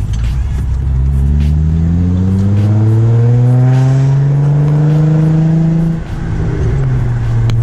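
Car engine accelerating, its pitch rising steadily for about five seconds. It then drops suddenly about six seconds in and runs on at a steady lower pitch until it cuts off abruptly.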